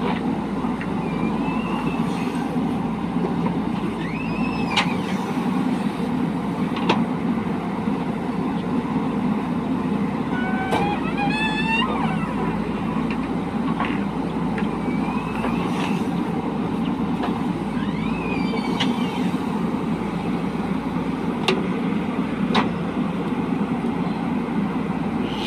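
Diesel engine of a JCB 3DX backhoe loader running steadily under working load. A few short, high, sliding squeaks and sharp clicks come and go over it.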